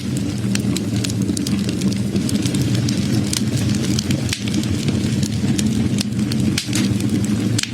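Wood fire burning: a steady low sound of the flames with frequent sharp crackles and pops from the burning wood.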